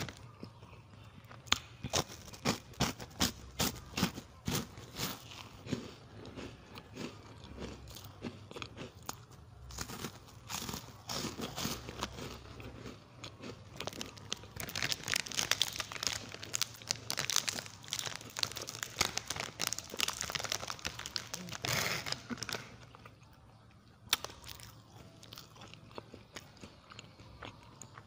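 Close-up chewing and crunching of crisp chocolate wafer cake bars, mixed with the crinkling of their plastic wrappers.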